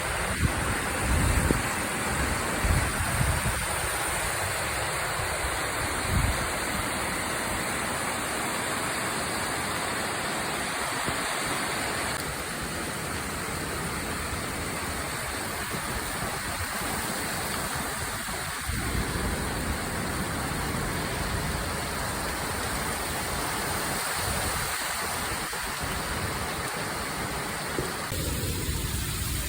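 Heavy typhoon rain pouring down in a steady, dense hiss, with a few low thumps of wind on the microphone in the first few seconds.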